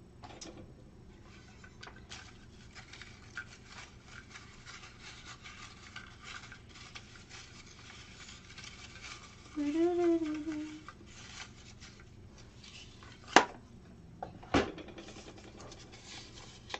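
Hands stirring and rummaging through slips of paper in a container to draw a name, a steady light rustling with small clicks and knocks. A brief hummed voice sound comes near the middle, then two sharp clicks a little over a second apart.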